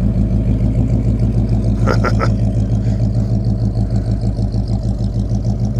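A car engine running steadily at low speed: a deep, even hum with a fast regular pulse. About two seconds in, three short high chirps cut briefly across it.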